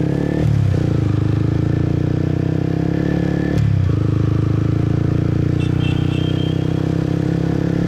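Motorbike engine running steadily while riding, its note dipping briefly about half a second in and again at about three and a half seconds as the throttle eases and picks up.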